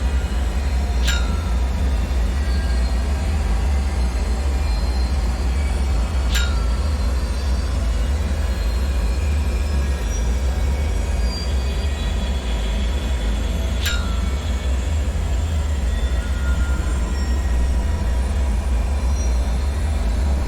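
Dark bunker ambience: a steady, heavy low rumble under a hiss, with three short high pings that fall quickly in pitch, about one, six and fourteen seconds in.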